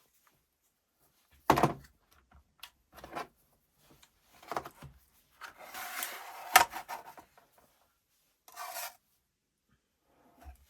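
Hand-handling noises from a cordless drill being worked on at a bench: separate knocks and clicks, a sharp knock about a second and a half in, and a stretch of rubbing and scraping that ends in a sharp click around six and a half seconds.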